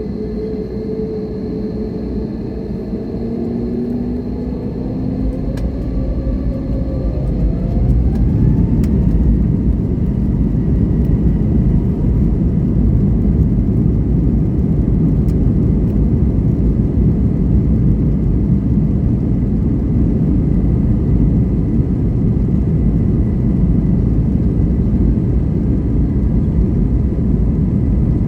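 Airbus A321neo's CFM LEAP-1A engines spooling up to takeoff thrust, heard from inside the cabin: several whining tones rise in pitch and the noise grows louder over the first eight seconds or so. The engines then hold a steady, loud, low rumble.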